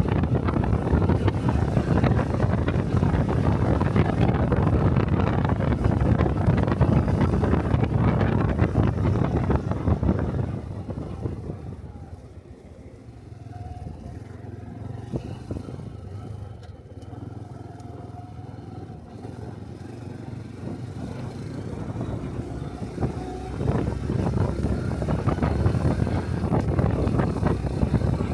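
Honda Cub 125cc single-cylinder motorcycle riding with wind rushing over the microphone; about ten seconds in it slows and settles to a quiet, steady idle, and about twenty-three seconds in it pulls away again and the wind noise returns.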